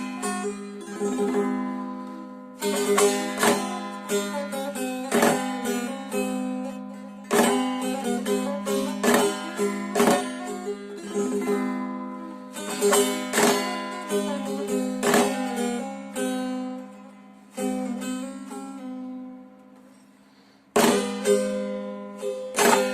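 Solo Turkish long-necked folk lute (saz) playing a folk melody: sharp strums every second or two over steady open drone strings, with quick picked notes between them. Near the end the notes die away almost to nothing before a strong strum picks the tune up again.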